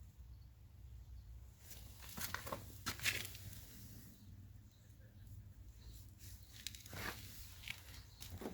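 A few scattered light clicks and knocks over a low steady hum, like parts or tools being handled.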